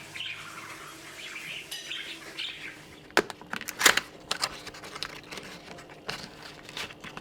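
Small birds chirping, then a run of sharp wing flutters and clicks, the loudest about four seconds in.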